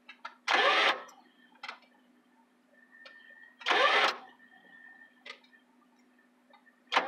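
1966 Lincoln's V8 engine turning over in two short half-second bursts, about three seconds apart. It fires but won't catch and keep running.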